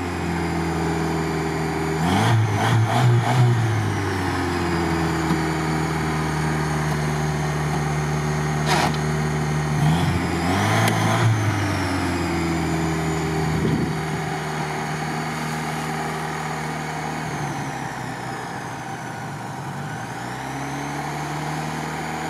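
LuAZ off-roader's engine running unevenly, its revs rising and falling several times, kept alive only with the snorkel inlet held shut by hand: closing the intake raises the revs, which the crew takes for a fault in the fuel or air supply after the engine took in water. A single sharp knock about halfway through.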